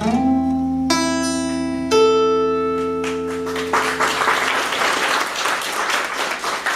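Acoustic guitar closing the song with three strummed chords that ring out and fade. From about three seconds in, the audience applauds.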